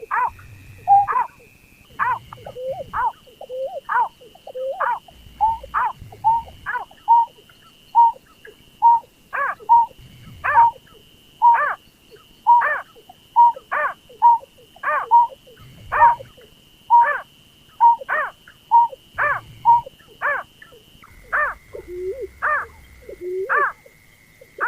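Berkik (pekung) paddy-field bird calling over and over as a trapping lure call: short, sharp notes about one or two a second, turning lower and falling in pitch near the end. A faint steady high tone runs underneath and steps slightly lower near the end.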